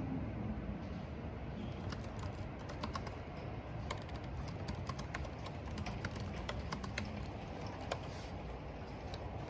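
Typing on a computer keyboard: irregular runs of keystroke clicks over a steady low rush of wind and rain.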